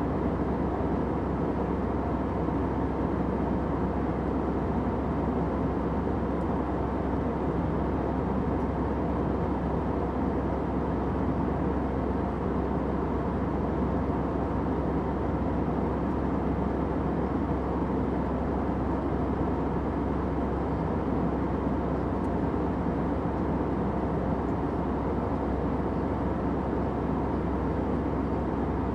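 Steady airplane cabin noise in flight: an even, unchanging rush of engine and airflow noise, heaviest in the low and middle range, with a deep hum underneath.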